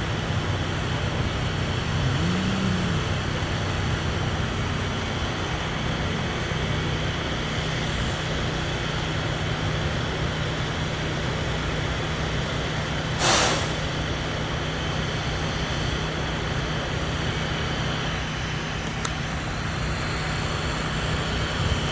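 Truck engine running steadily, with one short, loud hiss of air about 13 seconds in.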